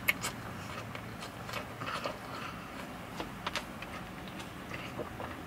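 A person chewing a mouthful of saucy chicken Big Mac close to the microphone: scattered wet mouth clicks and smacks, with one sharper click near the start.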